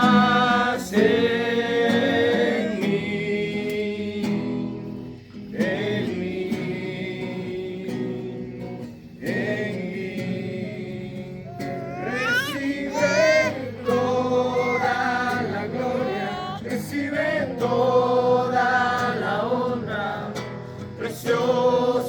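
A group of voices singing a Christian worship song over a steady accompaniment.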